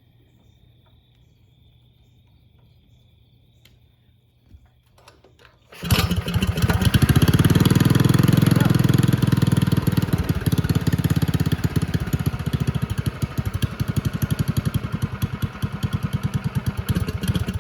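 Small minibike engine fitted with an aftermarket carburettor and exhaust, started for the first time: after a few seconds of quiet with a few clicks, it catches about six seconds in and runs with rapid exhaust pulses, loudest at first and then a little quieter.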